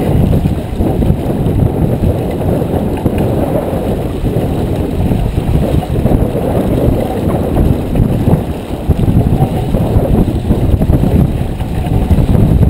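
Wind buffeting the microphone aboard a J24 sailboat under way, a loud low rumble that gusts up and down.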